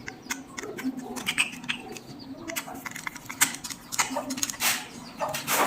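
Irregular small clicks and taps of hand work on electrical fittings, with a couple of longer rustles near the end.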